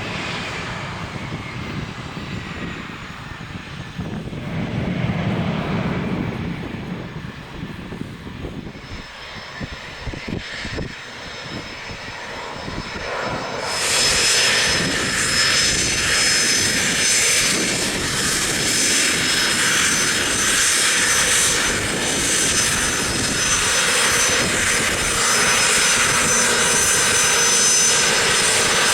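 Cessna Citation III business jet's turbofan engines running, at first moderate, then about halfway through suddenly much louder: a steady roar with a high whine, as the jet powers up close by.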